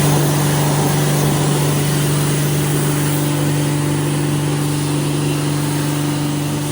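Pressure washer running steadily as its water jet rinses a car's door jambs: a constant motor hum under a loud, even hiss of spray.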